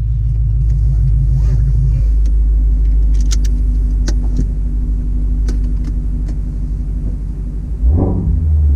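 2016 Shelby Mustang GT350's 5.2-litre flat-plane-crank V8 running low and steady while driven slowly, with scattered light ticks over it. Near the end there is a short burst of revs, after which the engine runs louder and deeper.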